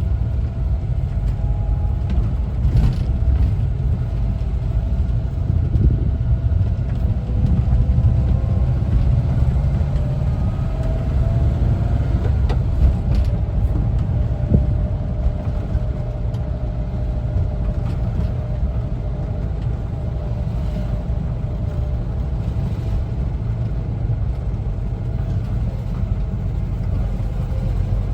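1974 Volkswagen Westfalia camper van's air-cooled Type 4 flat-four engine running under way, with a steady low rumble and a faint whine that drifts slowly in pitch. A few light knocks or rattles come through.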